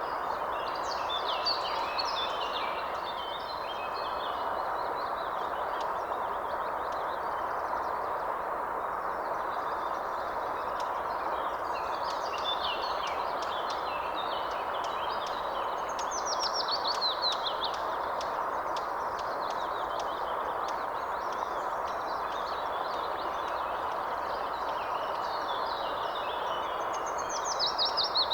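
Birds chirping and calling over a steady rushing background noise, with quick runs of falling, sweeping notes that come in bursts several times.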